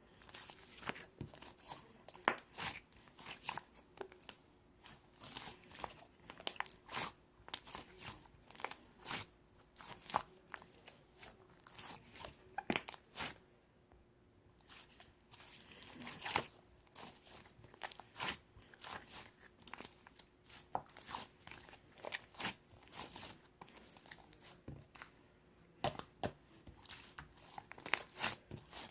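Slime being squeezed, stretched and poked by hand, making irregular crackling and popping clicks, with a short pause about halfway through.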